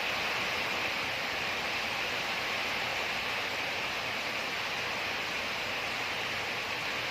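Steady, even hiss of background noise, with no distinct knocks or clicks over it.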